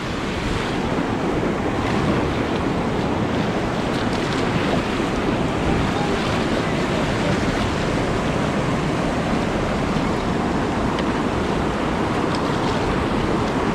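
River rapid rushing steadily, a continuous roar of whitewater with some wind noise on the microphone.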